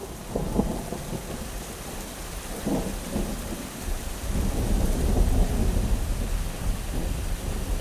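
Steady rain falling, with a low rolling rumble of thunder that swells about four seconds in.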